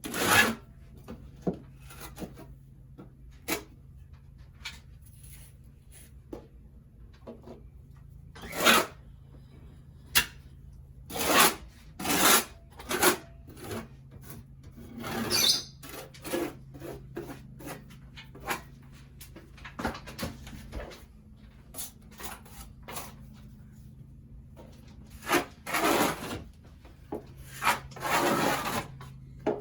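Hand tool working a textured ceiling surface: irregular rasping strokes, some short and sharp, clustered more densely near the end, over a faint steady low hum.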